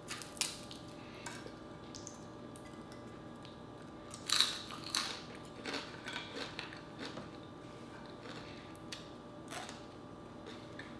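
Close-miked chewing and crunching of dried fish eaten with rice, with small clicks as fingers tear fish and pick food from the plate. A louder run of crunches comes about four seconds in.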